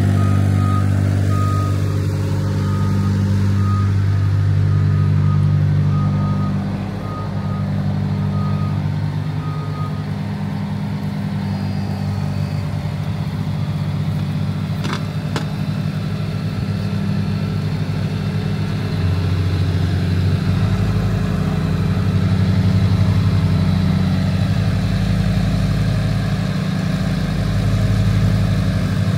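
Heavy diesel dump truck engine (Cummins X15) running steadily, with a reversing beeper sounding repeatedly for about the first ten seconds. Two sharp clicks come near the middle, and about two-thirds of the way through the engine note changes as a deeper rumble comes in.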